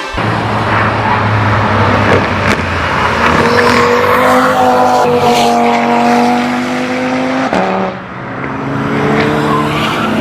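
Audi car engine pulling hard, its note climbing steadily for several seconds. About seven and a half seconds in it drops sharply, then climbs again.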